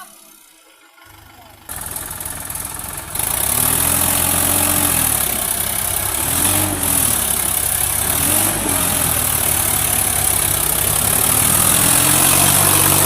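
Tractor diesel engine running, revving up and falling back several times.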